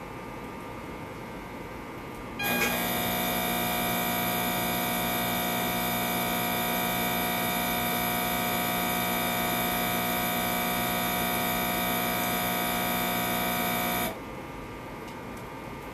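Intoxilyzer 5000 breath-alcohol instrument running a small motor, most likely its air pump purging the sample chamber: a steady buzzing hum that switches on with a click about two and a half seconds in and cuts off suddenly about two seconds before the end.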